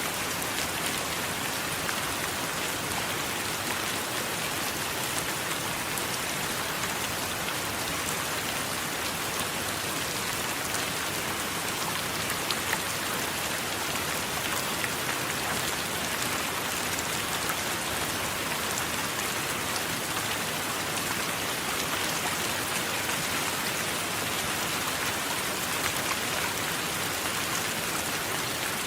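Steady rain falling: an even, bright hiss dotted with the patter of countless individual drops, unchanging in level.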